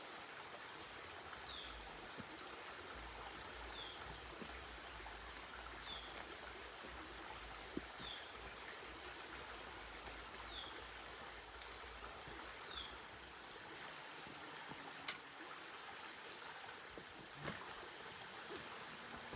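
Forest ambience: a steady rushing hiss like running water, with a small bird repeating a short high chirp about once a second until about two-thirds of the way in. A few sharp ticks stand out later on.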